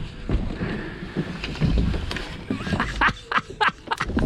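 Low, rumbling rub of a child sliding down a plastic playground slide, followed near the end by a child's voice.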